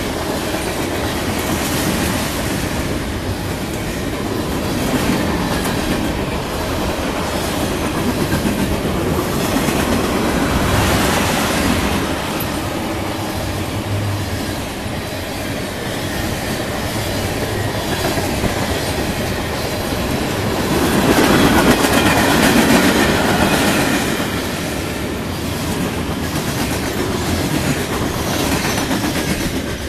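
CSX freight train cars rolling past close by, steel wheels clacking over the rail joints in a steady rumble.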